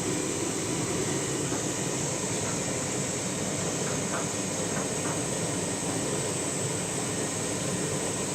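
Candy washing machine running with a steady rushing, rumbling noise, working through a heavy suds lock with the drum full of excess foam.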